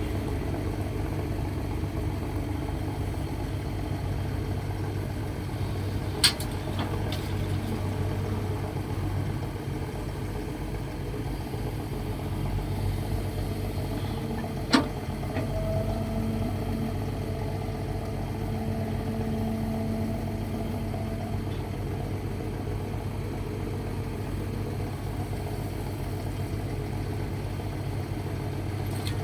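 Excavator working, its diesel engine running steadily, with two sharp knocks about six and fifteen seconds in.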